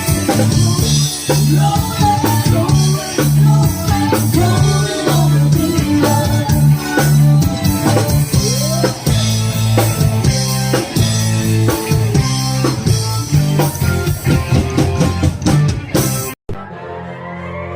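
Live military band playing upbeat rock: drum kit, bass guitar and electric guitar with a steady beat and repeating bass line. Near the end the music cuts off suddenly and a rising electronic sweep starts.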